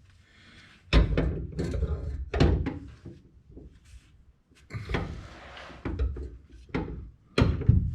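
Metal driveshaft safety-loop brackets clunking and rattling as they are held up and test-fitted against the underside of the car's floor, several knocks a second or two apart.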